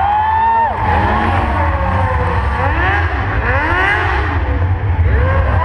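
Several motorcycle engines revving up and down, their pitches rising and falling and overlapping.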